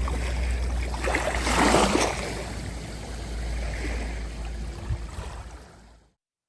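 Steady rushing water noise over a low rumble, swelling about two seconds in and fading out near the end.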